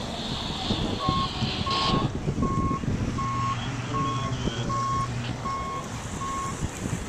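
A vehicle's backup alarm beeping, about eight short, even beeps a little faster than one a second, over wind noise and a low engine hum.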